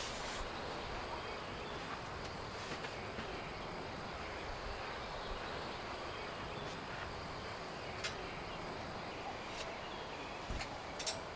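Steady rain falling, an even hiss, with a few scattered sharp taps of drops, a cluster of them near the end.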